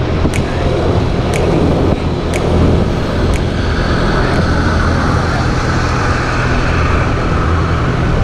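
Moped engine running steadily under way, with rushing road and wind noise and a light click about once a second in the first half.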